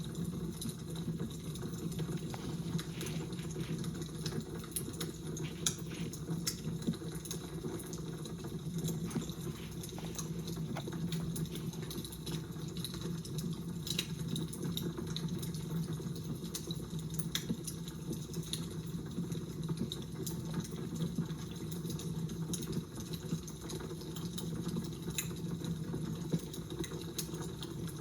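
Fire crackling, with many small irregular pops and snaps over a steady low rush.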